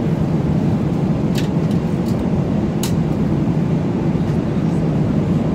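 Airliner cabin noise in flight: a steady, even low rumble of the jet engines and rushing air.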